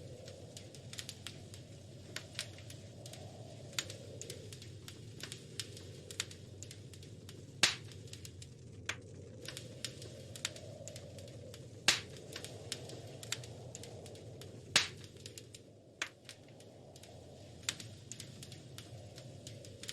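Wood fire crackling in a fireplace: irregular small pops and snaps, with three louder pops, over a low steady rumble of the burning fire.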